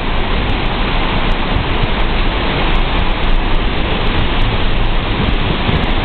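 Hurricane wind and wind-driven rain: a loud, steady rush of noise, with a heavy low rumble of wind buffeting the microphone.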